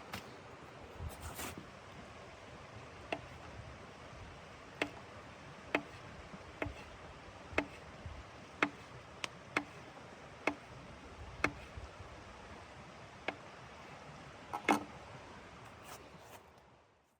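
Sharp, short knocks or ticks at an uneven pace of roughly one a second, each with a faint ring, over a steady low hiss.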